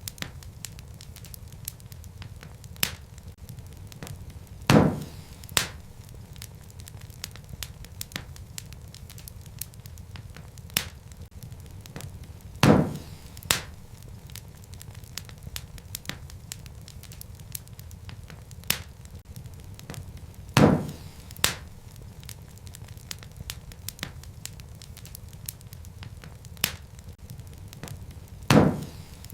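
Wood fire crackling, with a steady low rumble and many small ticks. Loud sharp pops come about every eight seconds, four in all, each followed by a smaller pop.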